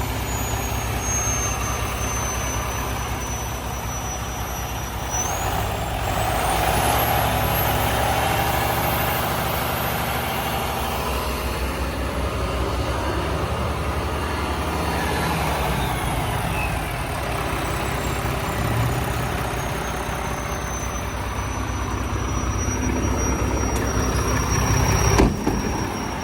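Diesel engine of a 2009 Mack GU813 quad-axle dump truck running steadily. A high whine climbs in pitch about six seconds in and slowly falls back later. A sudden loud burst comes near the end.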